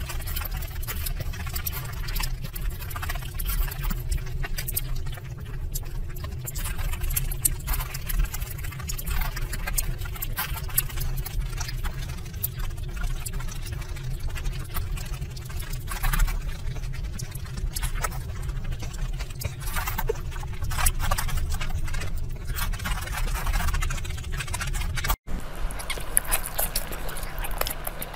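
Close-miked eating sounds: chewing with many small wet clicks and crackles over a steady low rumble.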